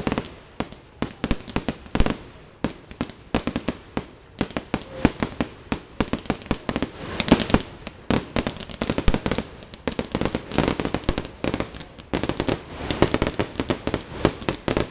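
Fireworks display: aerial shells bursting in a rapid, unbroken barrage of bangs and pops, several a second.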